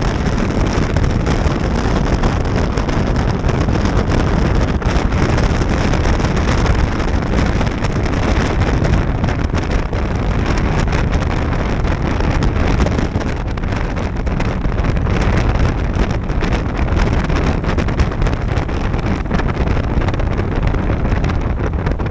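Steady wind rush over the microphone of a motorcycle moving at road speed, with the bike's engine and road noise underneath.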